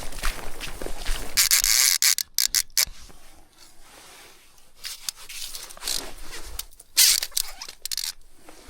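Rubbing and scraping noises with small clicks, loudest in two harsh bursts about a second and a half in and about seven seconds in, with a quieter stretch between.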